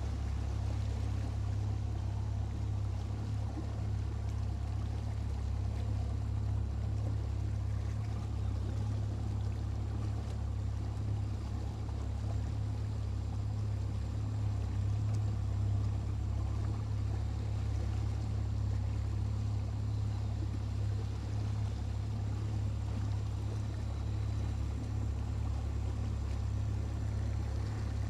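Boat motor running steadily at cruising speed, a constant low drone with some water noise over it.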